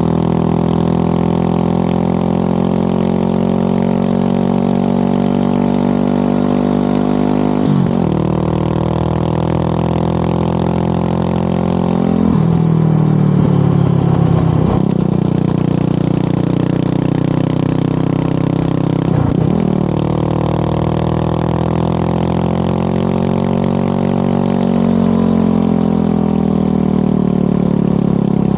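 Motorcycle engine running on the road, its pitch rising and falling with the throttle. There are brief breaks about four times where the rider changes gear, and the engine climbs again near the end.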